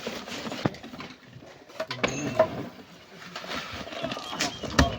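Several sharp knocks, as of stones or digging tools striking, the loudest near the end, with indistinct voices in between.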